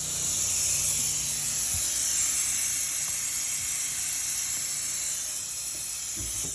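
Compressed air hissing steadily out of an open water line while the plumbing is blown out for winter. It stops suddenly at the very end as the valve is closed.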